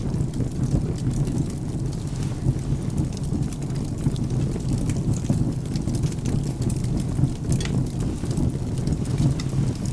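Wood fire crackling with scattered sharp pops over a steady low rumble of rain and thunder.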